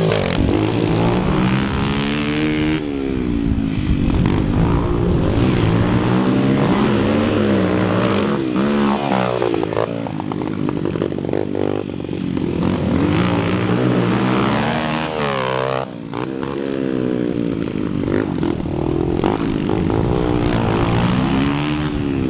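Small single-cylinder four-stroke pit bikes being ridden hard around a dirt track, their engines revving up and dropping back again and again as the riders open and close the throttle through the corners.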